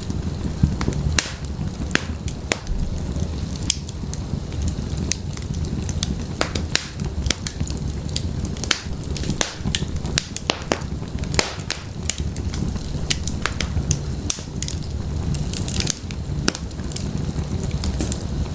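Firewood burning in an open fireplace, crackling with frequent, irregular sharp pops over a steady low rumble of the flames.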